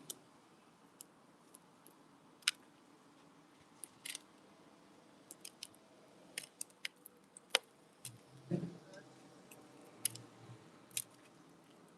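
Irregular sharp clicks and taps of a wood pigeon pecking at seed on a window bird feeder, with a duller thump about eight and a half seconds in.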